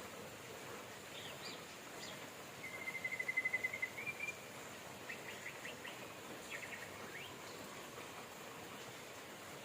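Steady rain hiss with birds singing over it: a rapid trill about three seconds in, the loudest sound, followed by a run of short quick chirps.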